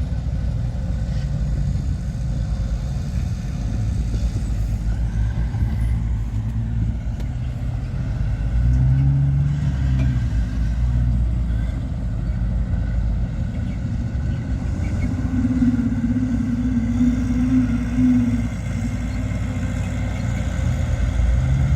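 Diesel engines of heavy earthmoving machinery, a bulldozer and dump trucks, running steadily with a deep, loud engine note. The pitch shifts as the machines work: the engine gets louder about nine seconds in, and a higher steady tone holds from about fifteen to eighteen seconds in.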